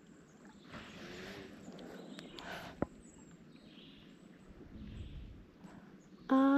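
Quiet outdoor ambience with faint rustling and one sharp click about three seconds in. Near the end, a short steady hummed note begins.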